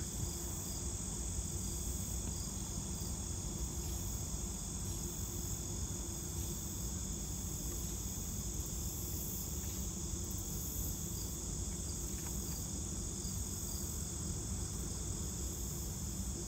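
Insects trilling steadily, a high continuous chirring with a regular pulsing chirp above it, over a low steady background hum.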